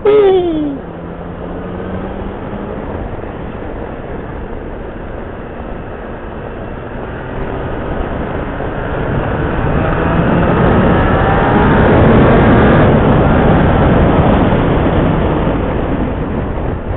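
Motorcycle ridden on the road, its engine and the rush of riding noise heard from on the bike. The engine pitch drops sharply at the very start, then climbs steadily as the bike accelerates, loudest about twelve seconds in, before easing off.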